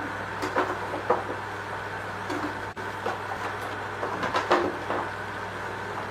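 Several sharp clicks and knocks of metal and plastic parts being handled during washing machine repair work, the loudest cluster about four and a half seconds in, over a steady hum.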